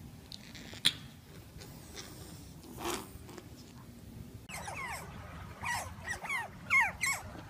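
Otters calling: a run of high, squeaky chirps, each sliding down in pitch, about three a second, starting about halfway through. Before that only faint, quiet handling sounds with a light click.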